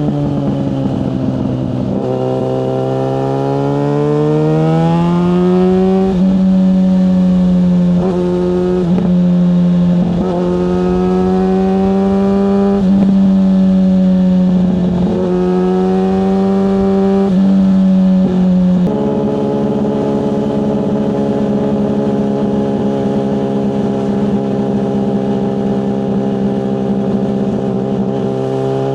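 Yamaha FZ6S motorcycle's 600cc inline-four engine. It pulls up through the gears, rising in pitch with a short dip at each shift, then settles to a steady lower note about two-thirds of the way through.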